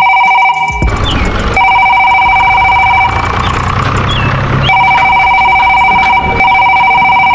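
A loud, steady electronic tone made of several held pitches, sounding in three long stretches. In the two gaps there is a low rumbling noise with a few short chirps.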